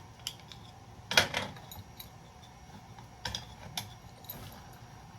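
Small metal scrap parts clinking and knocking as they are handled, a few sharp clinks, the loudest about a second in.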